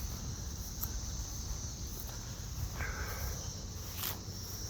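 Steady high-pitched chorus of insects outdoors, with a few sharp clicks, the loudest about four seconds in.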